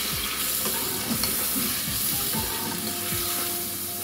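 Chicken pieces frying in hot oil in a metal karahi, sizzling steadily while a perforated metal ladle stirs and turns them. The ladle makes short repeated strokes against the pan about twice a second.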